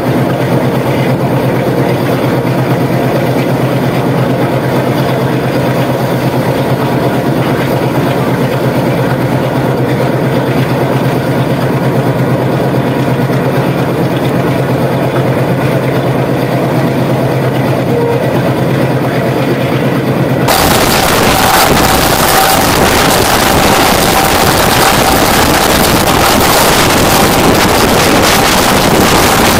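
Running noise of a moving train heard from an open luggage-van door: a steady rumble with a low hum. About twenty seconds in it turns abruptly louder into a harsh rushing roar as another train passes close alongside on the next track.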